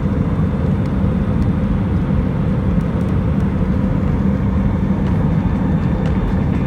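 Airliner cabin noise: the steady, low rumble of jet engines and airflow heard from inside the passenger cabin, with a few faint ticks.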